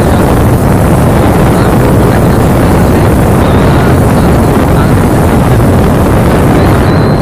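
Wind buffeting the microphone over the engine and road noise of a moving CNG auto-rickshaw, loud and steady.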